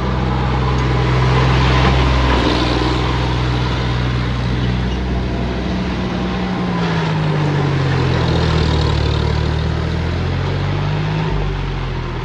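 Tractor engine running hard, its pitch sliding down about seven seconds in and climbing again shortly after.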